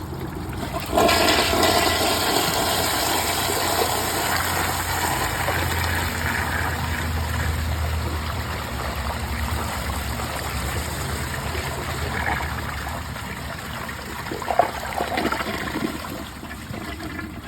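2018 Mansfield Summit dual-flush mid-tank toilet flushing on an overfilled tank: a sudden rush of water starts about a second in, runs on strongly, then slowly fades. A short knock is heard near the end.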